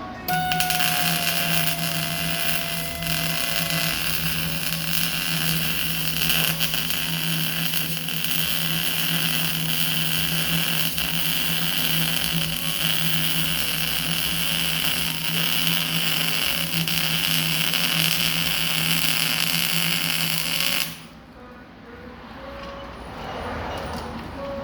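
Metalworking on steel exhaust header pipe: a loud, steady machine noise with a low hum, starting abruptly and cutting off about 21 seconds in.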